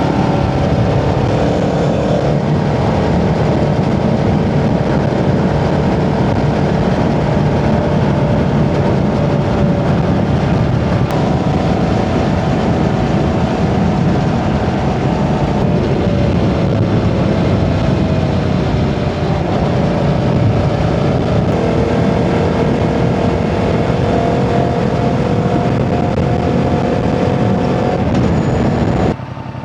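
Yamaha Tracer 7's parallel-twin engine running at a steady cruise under heavy wind and road noise, its pitch drifting slowly up and down. Near the end the sound drops abruptly to a much quieter level.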